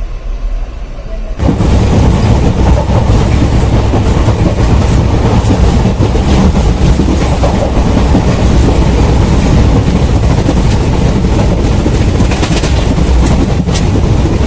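Train running on rails, loud and steady with a rushing noise and the clickety-clack of wheels over the rail joints; it comes in suddenly about a second and a half in.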